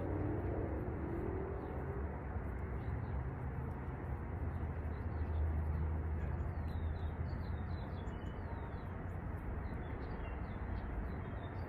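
Faint birds chirping over a steady low rumble of outdoor background noise, the chirps coming mostly in the second half.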